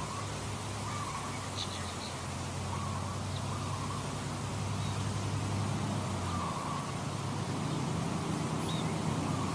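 Short bird calls repeating every second or two, with a few brief high chirps, over a steady low hum and an even hiss.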